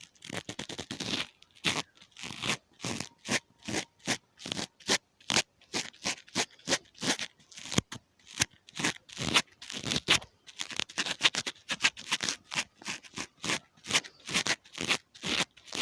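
Ear-cleaning ASMR sounds: an ear pick scraping and scratching at a microphone, in quick short strokes about three or four a second.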